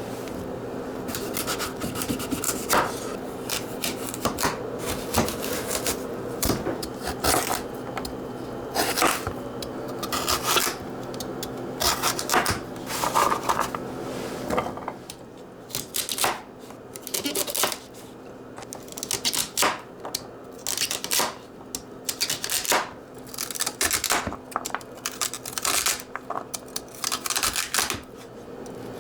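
Kitchen handling sounds: irregular clicks, taps and clatter of utensils and dishes over a steady hum, which cuts off about halfway through.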